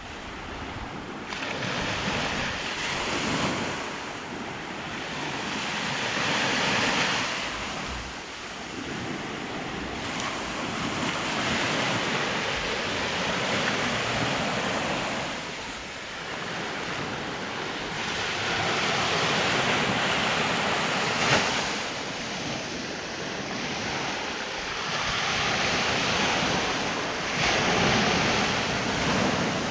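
Sea surf breaking and washing in, the noise swelling and easing every few seconds, with wind rumbling on the microphone.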